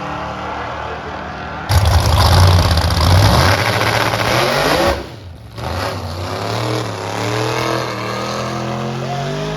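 Car engine accelerating hard at a street race. It turns abruptly much louder about two seconds in, with the pitch climbing before it drops away around five seconds. It then runs steadier, pitch slowly rising, for the rest of the clip.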